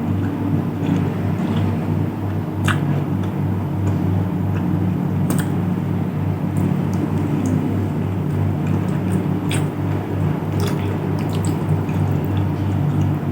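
Close-miked chewing of nasi padang: wet mouth sounds with a few sharp clicks now and then, over a steady low rumble.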